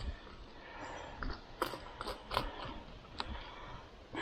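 A few sharp clicks and light knocks as a Ryobi EZClean handheld power cleaner is handled and readied for spraying.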